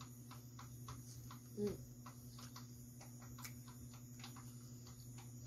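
Close-miked chewing of corn on the cob: a faint string of small irregular mouth clicks, several a second, with a brief hum from the eater about a second and a half in.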